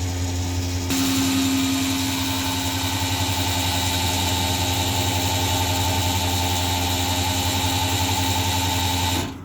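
Filling-station fuel dispenser pumping diesel into a truck's tank: a steady machine hum, with the rush of fuel flow starting about a second in. It cuts off abruptly near the end.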